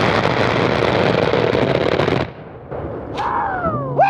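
The A-10's GAU-8 Avenger 30 mm rotary cannon firing a long continuous burst, the 'brrrt' of a gun run heard from the ground, cutting off sharply about two seconds in. A falling whine follows near the end.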